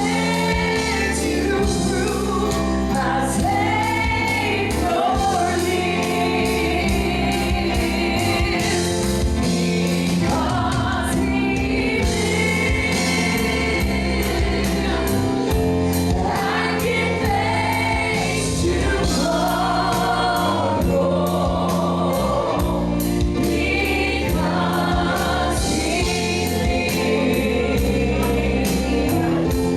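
Gospel choir singing with band accompaniment, with a steady beat from drums and bass.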